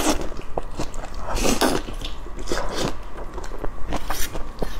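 Close-miked chewing of a bite of grilled eggplant, with several louder mouth sounds through it.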